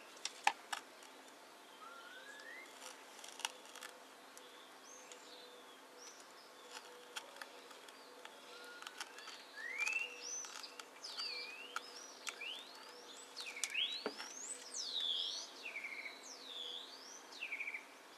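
Birds calling: repeated whistled calls that sweep up and down in pitch, coming more often in the second half. A few light clicks are heard among them.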